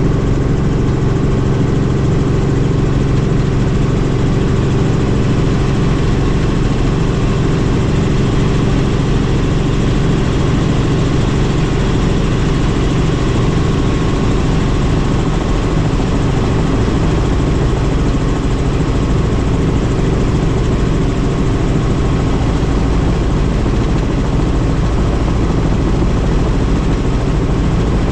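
Helicopter in flight: steady engine and rotor noise, a constant hum with several held low tones over a wide rush, unchanging throughout.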